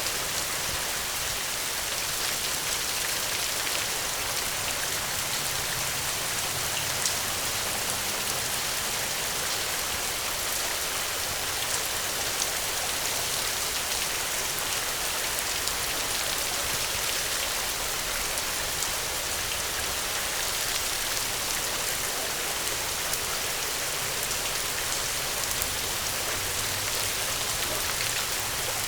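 Steady rainfall: an even hiss of rain with many individual drops pattering on a surface, a few drops landing a little louder.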